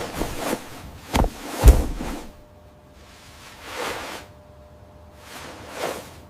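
Whooshing sound effects, several swells of noise that rise and fade, with two heavy hits a half second apart about a second in, the second one the loudest.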